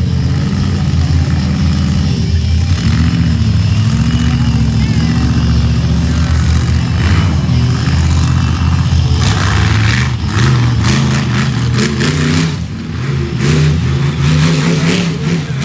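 Loud vehicle engines revving and running, their pitch rising and falling repeatedly, with a noisy wash of other sound over them.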